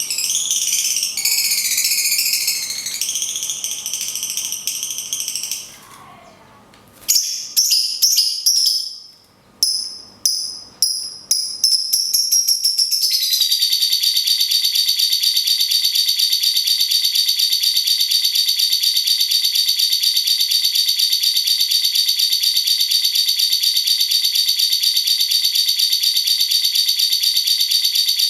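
Caged cucak cungkok and lovebird song: high, rapid chattering for several seconds, a short break, then a string of separate sharp notes, then a long unbroken rattling trill held steady for about the second half.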